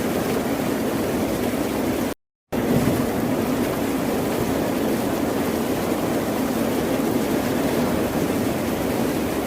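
Ocean surf as a steady, even wash of waves. About two seconds in it cuts out to silence for about a third of a second, then resumes.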